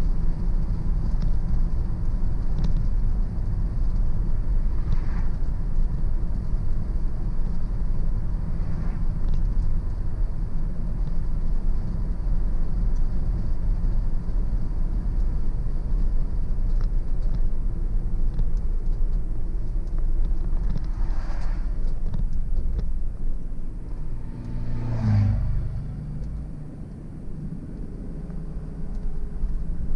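Car driving on a country road: a steady low rumble of tyres and engine. It eases off for a few seconds near the end, then builds again.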